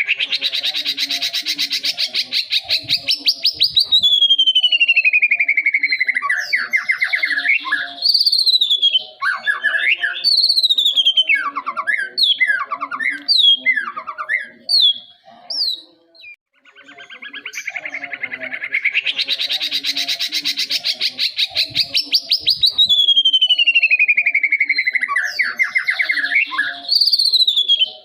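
Young white-rumped shama singing: a fast rattling trill that slides down into a long falling whistle, then a string of short whistled notes. The same phrase comes again a little past halfway.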